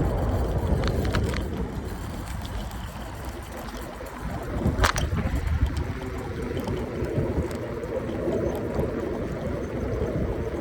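Wind rumbling on the microphone with road and tyre noise from a moving electric scooter. A few sharp clicks or rattles come through, the loudest about five seconds in, and a faint hum joins near the end.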